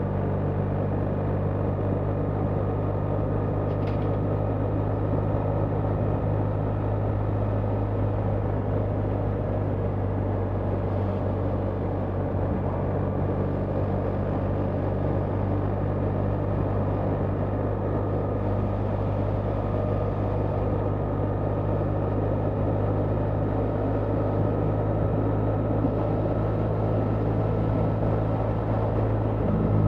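BMW R 1300 GS's boxer-twin engine running at a steady cruise, heard from the rider's position with wind and road noise over it.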